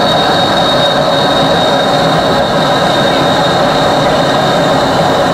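Homemade workshop-built jet engine running loudly and steadily, with a high whine held at one pitch.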